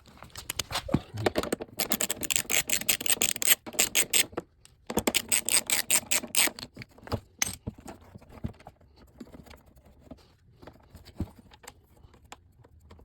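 Metal hand tools clicking and rattling in two quick runs of many sharp clicks, then scattered single clicks.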